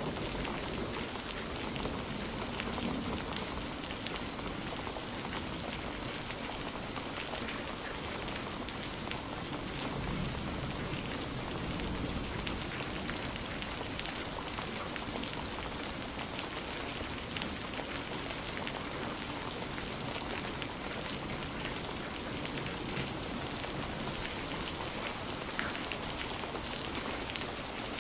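Steady rain falling, an even hiss of many drops, with a low rumble of thunder dying away in the first few seconds.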